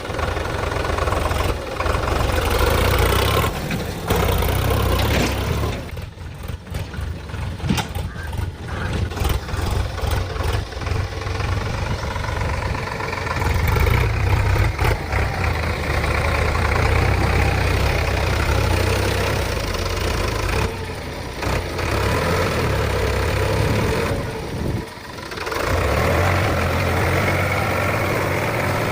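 Diesel tractor engines running, the engine note rising and falling under load, with a few brief sudden drops in sound.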